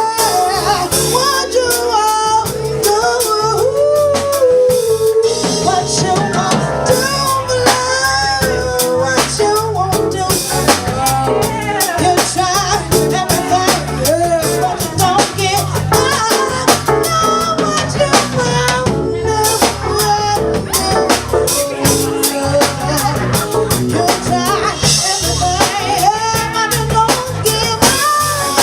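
Live band playing a song: a drum kit keeping a steady beat under a wavering lead melody, with no words heard.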